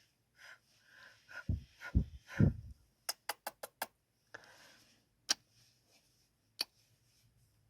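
Close-miked ASMR kissing sounds: wet lip smacks and kisses with soft breaths between. Three heavy low thuds come about two seconds in, then a quick run of about five sharp kiss clicks around three seconds in, and two single kisses near the end.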